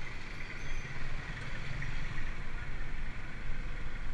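Steady rushing wind buffeting the microphone of a camera on a moving bicycle, with a low rumble of the ride underneath and no clear separate events.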